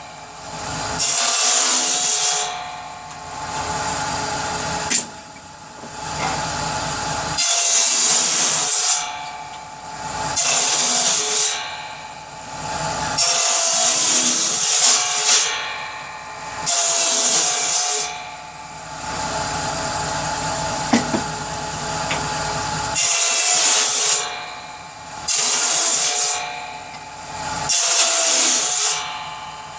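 Power saw running and cutting repeatedly through pieces of firewood to make kindling. There are about eight cuts, each a harsh hiss lasting a second or so, with the saw running on between them.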